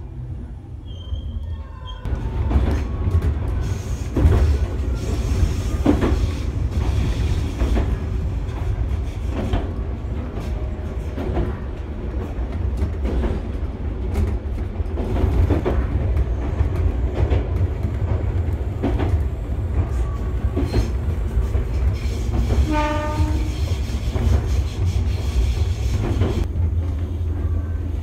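Passenger train running, heard from inside the car: a steady low rumble with the clickety-clack of wheels over rail joints. It grows louder about two seconds in, and a short horn blast sounds about 23 seconds in.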